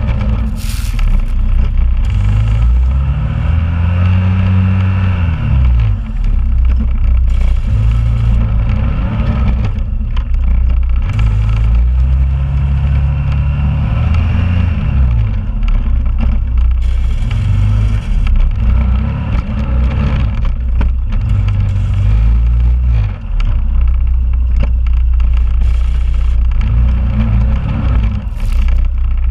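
2001 Honda Rubicon ATV's single-cylinder engine running while plowing snow, revving up and easing off again and again, with two longer rev climbs.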